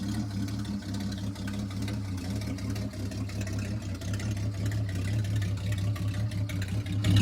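A 1988 Chevrolet Opala's engine running steadily with an even low hum, growing louder near the end.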